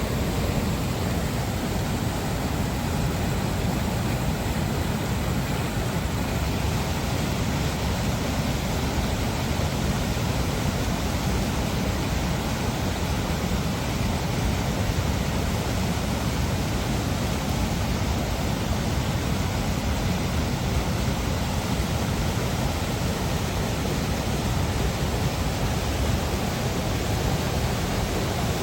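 Rushing water of a river cascade: a steady, unbroken rush of whitewater tumbling over falls, strongest in the low end.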